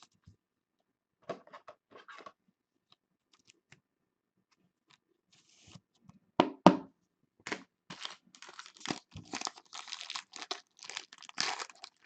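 A trading-card pack wrapper being torn open and crinkled in the hands, with a couple of sharp knocks about six and a half seconds in and scattered light clicks before it.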